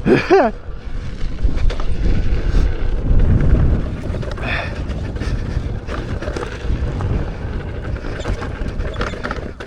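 Wind rushing over the microphone of a rider on an electric unicycle going down a dirt trail, with scattered small knocks from the trail.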